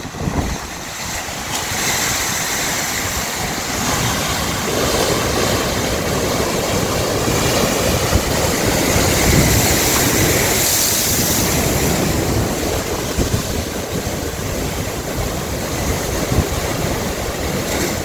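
Sea waves washing in and breaking, a broad rushing noise that swells to its loudest about ten seconds in and then eases off.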